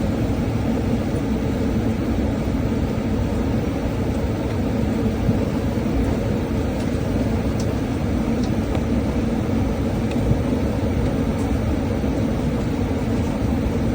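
Airliner cabin noise: a steady, unbroken rumble of jet engines and airflow, with a few faint ticks.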